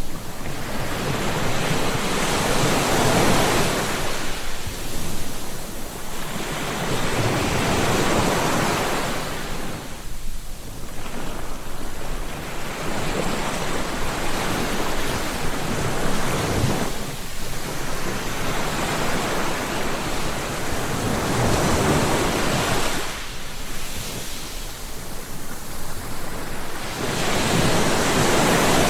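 Ocean waves breaking on the shore, one wash of surf after another, each swelling and easing over a few seconds.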